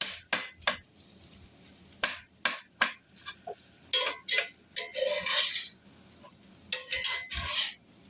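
A utensil stirring fried rice in a hot pan: irregular clinks and scrapes against the metal over a steady sizzle as the butter is worked in.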